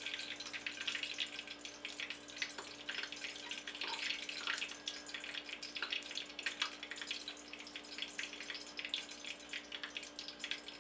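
Chili being spooned onto hot dogs in buns: a spoon scraping and dabbing, with irregular small wet clicks throughout, over a faint steady hum.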